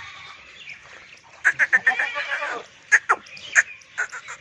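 Makhi Cheeni goat bleating: a pulsed, quavering call about a second and a half in, followed by a few short, sharp calls near the end.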